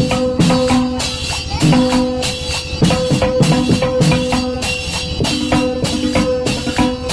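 Bhajan music driven by fast, dense dholki drumming, with jingling hand percussion and steady held melody notes underneath.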